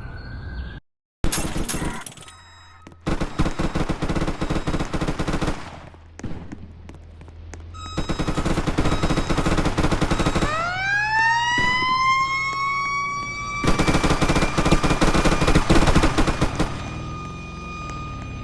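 Fire truck sirens: an electronic siren pulsing very fast in three stretches, and a siren tone that winds up from low to high about halfway through and then holds steady. The audio cuts out briefly about a second in.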